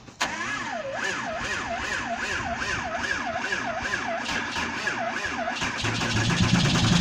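Dodge Ram 2500's inline-six Cummins turbo diesel being cranked in extreme cold after sitting unplugged for days. The starter whine rises and falls about once a second for five seconds or so, a slow, hard crank. The engine catches about six seconds in and runs.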